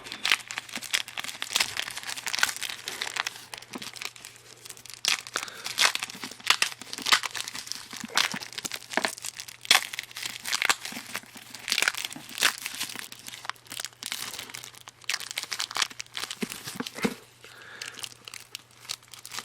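Plastic shrink-wrap being peeled and torn off a boxed CD set, with dense irregular crinkling and crackling throughout.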